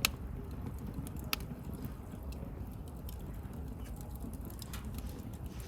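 Wood bonfire burning with a steady low rumble and scattered sharp crackles and pops, one right at the start and another about a second later.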